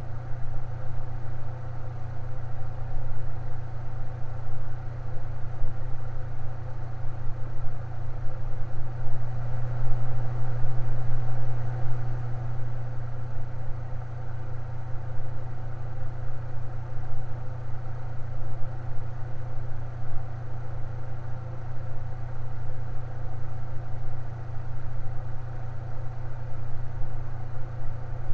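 Electric fan running steadily: a low motor hum under a soft rush of air, swelling a little for a few seconds about ten seconds in.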